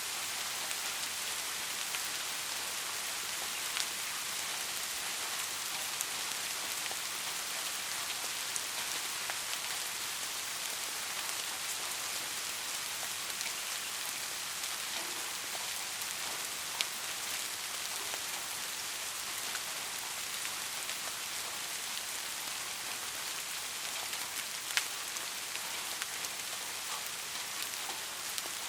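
Soft rain falling steadily, an even hiss with individual drops pattering and a few louder drop hits now and then.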